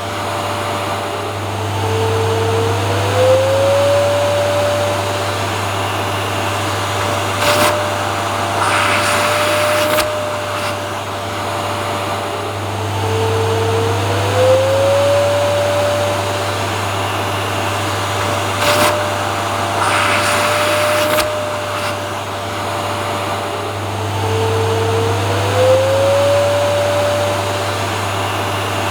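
Vacuum cleaner motor running steadily. Three times, about every eleven seconds, its pitch dips and then glides back up. A few brief, louder hissing surges come in between.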